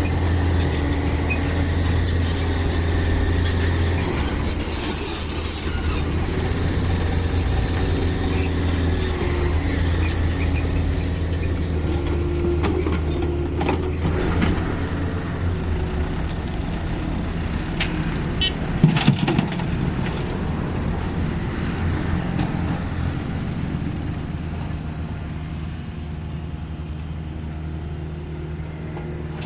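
Diesel engine of a Cat 305.5E2 mini excavator running steadily while it digs and loads soil into a dump truck, with a brief high squeal about five seconds in and a few sharp knocks about two-thirds of the way through. The engine note eases off near the end.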